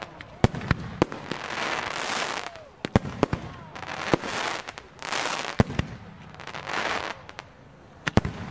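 Large professional fireworks display: sharp bangs of bursting fireworks, some singly and some in quick pairs, alternating with hissing, crackling washes that each last about a second.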